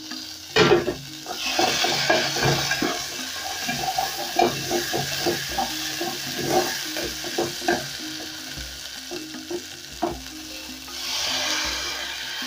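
Onions, garlic, ginger, coriander stems and tomato paste sizzling as they fry in a metal pot. A wooden spoon stirs them, scraping and tapping the pot, with a sharp knock about half a second in. Near the end, water poured onto the hot paste sets off a louder burst of sizzling.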